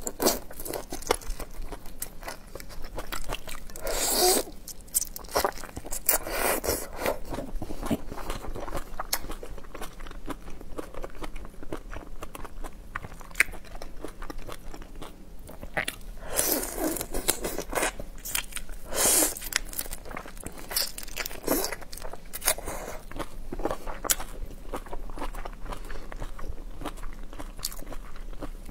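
Irregular crunching bites and chewing of shell-on raw marinated shrimp in chili-garlic sauce, picked up close by a clip-on microphone, with a few crunches louder than the rest.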